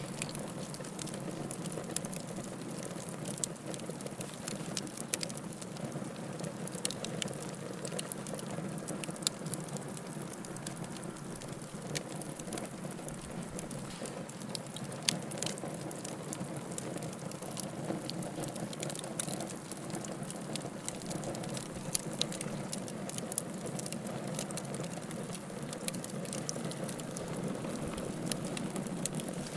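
Firewood crackling in a fireplace: a steady low hiss of burning with frequent small snaps and pops at irregular times.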